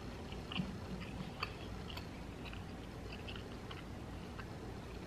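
A person chewing a mouthful of food with the mouth closed: soft, irregular clicks.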